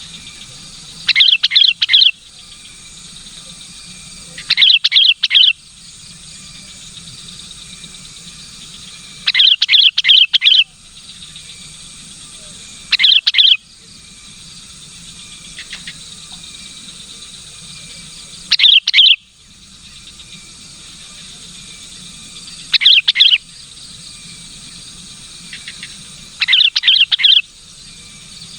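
Sooty-headed bulbul (kutilang) calling: seven short, loud bursts of quick chirping notes, repeated every three to five seconds over a steady background drone.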